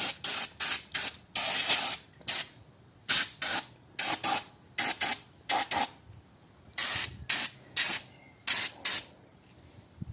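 Aerosol brake cleaner sprayed in quick short bursts onto a sanded brake rotor, a rapid series of hissing squirts with a few longer ones and a brief pause near the middle, used to blast off sanding debris.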